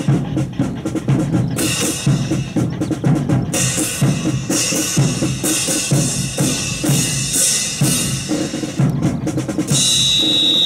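Marching percussion section playing a rhythm on bass and snare drums. Near the end a long, steady, high-pitched tone comes in over the drums.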